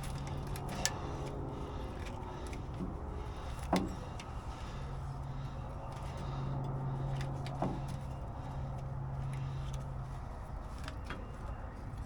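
Scattered light clicks and a few sharper knocks from air lines being handled and pushed into the fittings of a trailer's air-suspension leveling valve, over a steady low hum.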